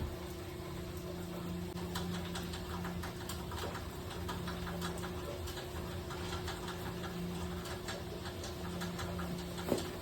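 Water from a failed expansion tank spattering and dripping in many small irregular ticks, over a steady mechanical hum.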